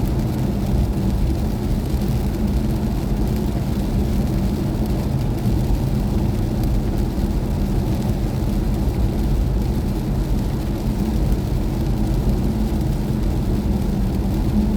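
Steady road and tyre rumble inside the cabin of a BMW i4 M50 electric car driving at a constant speed, with a low, even hum and no engine sound.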